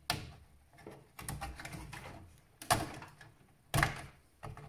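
Hands working on an old desktop PC, with about five sharp clicks and knocks of plastic and metal parts and faint handling noise between them.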